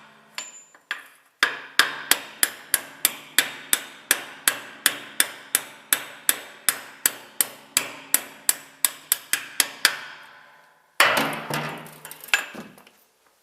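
Hammer tapping the cluster gear bearing into a Daihatsu Sirion gearbox casing: light, even metallic taps at about three to four a second, with a short break about a second in, ending around ten seconds in. Near the end, one louder metallic clatter.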